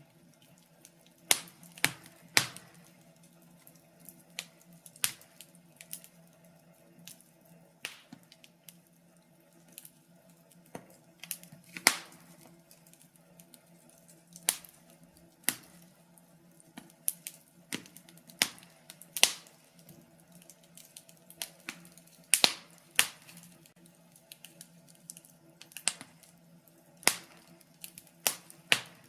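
Wood fire crackling: irregular sharp pops and snaps, a few of them loud, over a faint steady hum.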